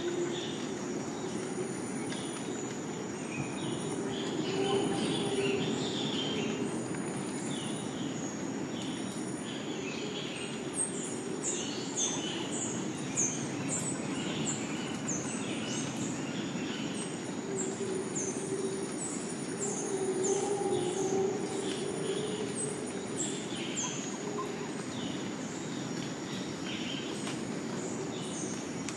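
Tropical rainforest ambience: insects holding steady high-pitched buzzes, with many short, repeated descending calls (birds or insects) and scattered bird calls over a constant low rushing background.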